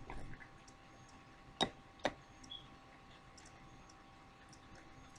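Two sharp clicks about half a second apart, with a few fainter ticks, from a makeup container being handled and opened.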